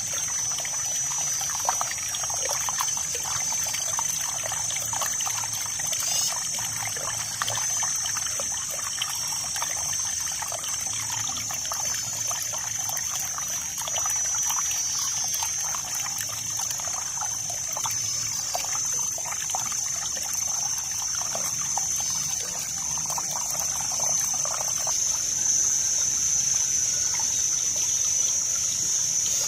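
Water trickling and splashing steadily, a continuous babble of small droplets. A steady high-pitched buzzing tone runs over it, with a second, higher tone that stops about eleven seconds in.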